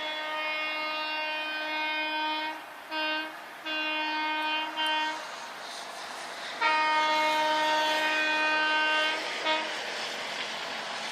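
Train horn sounding a single steady note in a series of blasts: a long blast, a short one, another of about a second and a half, then after a pause a long blast of over two seconds and a brief toot. Steady rumble and hiss of the train underneath.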